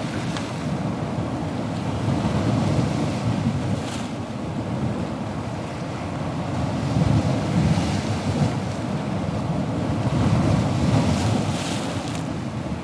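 Ocean surf washing ashore, a continuous low rumble of waves that swells and eases every few seconds, with brief hissing washes of foam.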